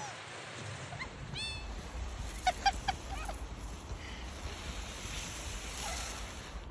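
A short high call followed by a quick run of four or five short honking calls, over a steady low rumble.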